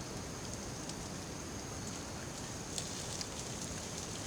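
Campfire crackling with scattered sharp pops over a steady hiss, with a constant high-pitched whine behind it.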